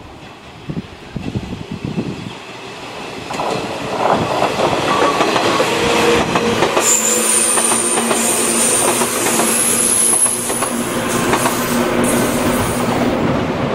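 Shinano Railway 115-series five-car electric train passing close by. The rumble of wheels and motors builds over the first few seconds, with clicks over the rail joints and a high-pitched squeal in the second half, then starts to fade near the end.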